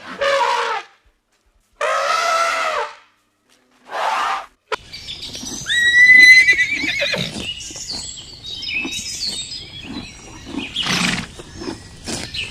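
Horse calls: three short separate calls in the first few seconds, then a wavering high whinny about six seconds in.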